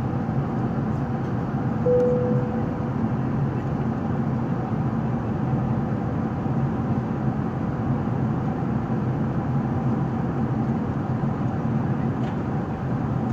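Steady drone inside the cabin of an Emirates Airbus A380 in flight, engine and airflow noise with a constant low hum. About two seconds in, a brief single tone sounds over it.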